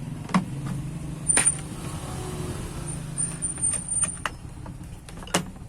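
Sharp metallic clicks and knocks of hand tools working the starter solenoid loose, about half a dozen spread through, over a steady low hum.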